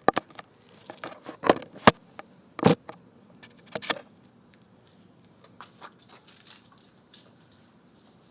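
A scatter of sharp clicks and knocks, several loud ones in the first four seconds, then fainter, sparser ticks. No engine running.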